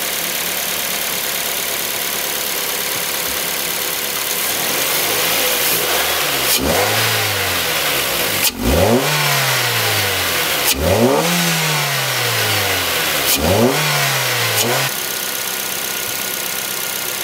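Mazda 2's four-cylinder engine, fitted with a freshly installed short ram intake and open K&N cone filter, idling and then blipped four times about two seconds apart, each rev rising and falling back to idle. The induction noise is louder with the new intake.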